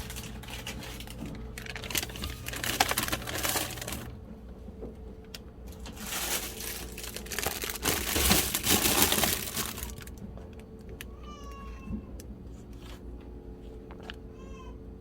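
Crinkling and rustling in two long stretches of a few seconds each, with short high-pitched whiny cries near the end over a low steady hum.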